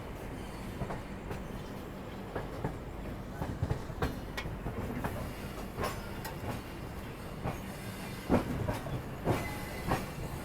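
Indian Railways passenger train coach running on the track: a steady low rumble with irregular clicks and knocks from the wheels and couplings, clickety-clack over the rail joints.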